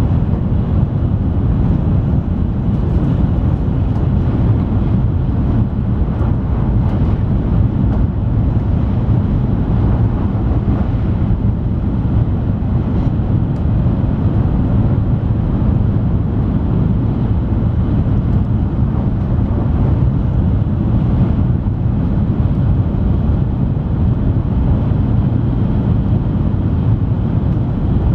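Interior running noise of an N700-series (7000-series) Shinkansen travelling at high speed: a loud, steady low rumble heard inside the passenger car.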